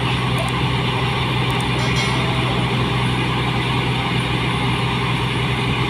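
New Holland 8060 combine harvester's diesel engine running steadily, a constant drone with a strong low hum.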